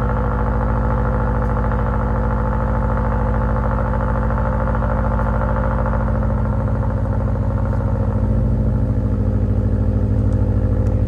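Subaru WRX STI's turbocharged 2.5-litre flat-four idling steadily after a cold start, heard through a Borla cat-back exhaust. It gets slightly louder and more throbbing in the last few seconds.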